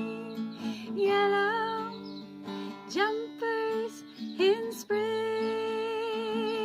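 Acoustic guitar strumming under a woman's wordless singing: long held notes with vibrato and two upward swoops into notes near the middle.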